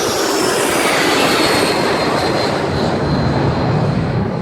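French Navy jet flying low past, its jet engine noise loud with a whine that falls in pitch as it goes by, the high part fading in the last second or so.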